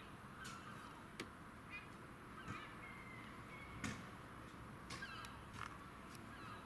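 Faint bird calls: a few short chirping calls scattered through, with several sharp clicks, the loudest a little before the four-second mark, over a steady low background hum.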